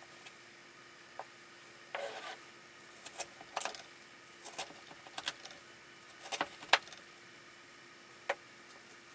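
Kitchen work sounds: a short scrape about two seconds in, then a string of sharp, irregular clicks and knocks of utensils against a board or dish.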